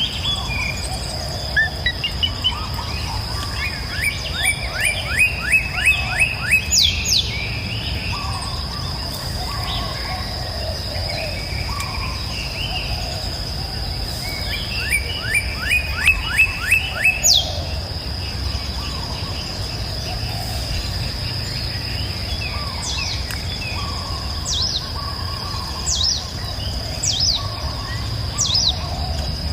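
Songbirds singing: twice a song of about eight quick down-slurred notes in a rapid series ending in a high downward sweep, and later several short high down-slurred chirps. Under them run a steady high-pitched insect drone and a low steady rush of flowing water.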